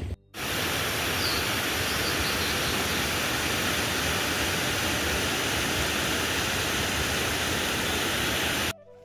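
Steady rushing of fast-flowing water, an even full-range roar that starts and stops abruptly.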